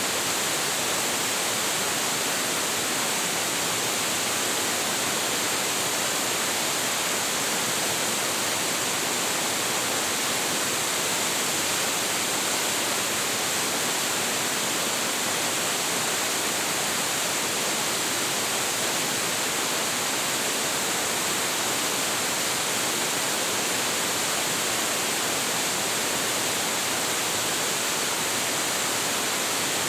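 Large waterfall crashing steadily into its plunge pool, a constant even rush of falling water without a break.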